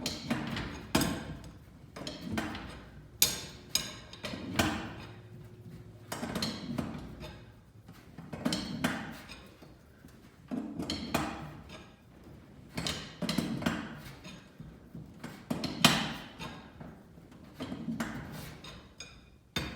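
Steel winding bars clinking in and out of the aluminum winding cone of a garage door torsion spring as the spring is wound by hand, a quarter turn at a time. There is a sharp metallic click about every two seconds, each followed by a brief low rumble.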